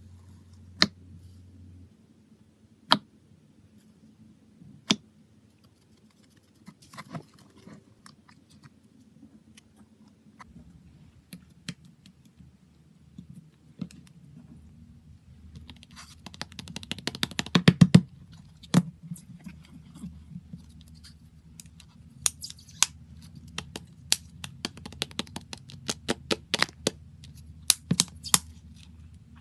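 Hands working slime, making sharp clicks and crackling pops: a few single clicks about two seconds apart at first, a dense burst of rapid crackling around the middle, and many scattered clicks toward the end.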